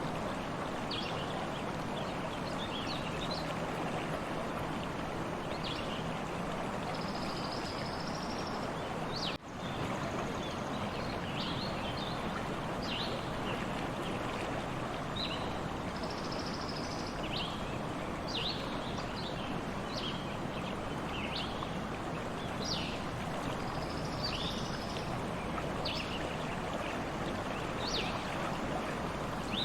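Stream water running steadily, with small birds chirping often over it and a few short buzzy trills. The sound drops out for a moment about nine seconds in.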